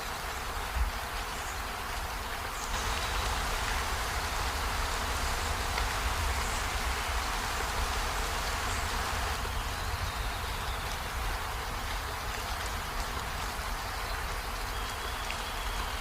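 Steady rain falling on trees and a window, an even hiss of drops that grows heavier about three seconds in and eases back after about nine seconds. There is a single soft knock just under a second in.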